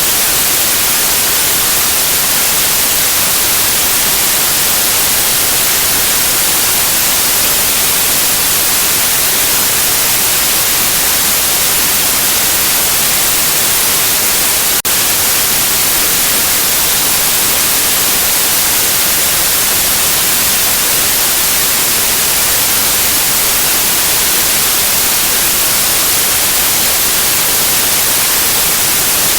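Steady, loud white noise, an even hiss with no tone or rhythm, played to soothe a colicky baby to sleep. There is one tiny break about halfway through.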